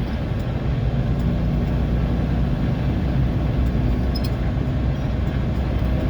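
A vehicle's engine and road noise heard from inside the cab while driving: a steady low hum.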